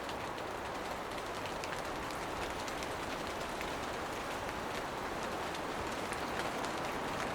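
Steady rain shower falling on foliage and ground, an even hiss with scattered individual drop ticks.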